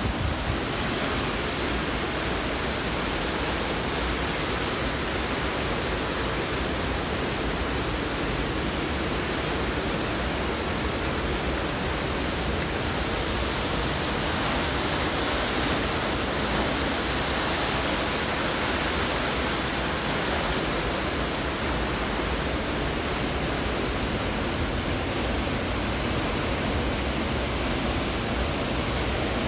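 Hurricane-force wind and heavy rain: a steady, dense rush of noise that swells slightly about halfway through.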